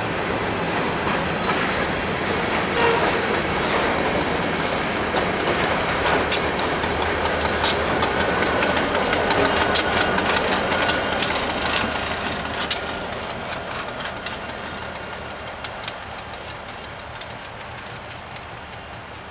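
Freight train rolling past: covered hopper cars with a steady rumble and rapid clicking of wheels over rail joints, loudest around ten seconds in as a locomotive goes by, then fading away as the train moves off.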